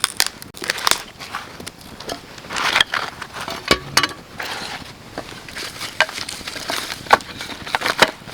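Dry wood snapping and crackling in sharp, irregular cracks, with crunching between them.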